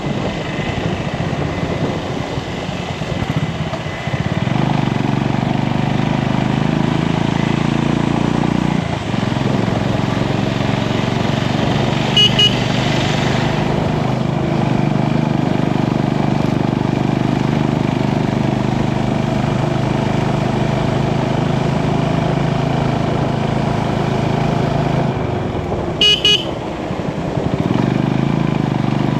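Motorcycle engine running steadily while riding, with two short horn honks, one near the middle and one near the end.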